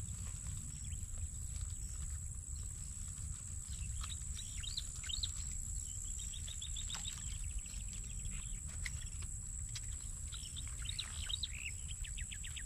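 Small birds chirping, with short sweeping calls and quick trills of rapidly repeated notes about 4 to 7 seconds in and again near the end. Under them run a steady high-pitched insect buzz and a constant low rumble.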